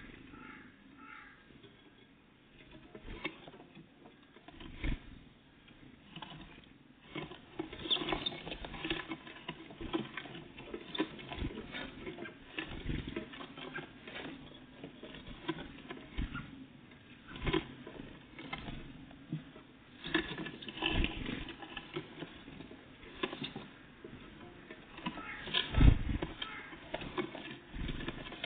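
Great tits and blue tits feeding close to the microphone: irregular taps, pecks and scratches as they land, hop and peck at seed, with a louder knock near the end.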